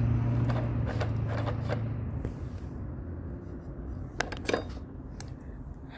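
A low steady hum that dies away about two seconds in, followed by two light clicks a little after four seconds.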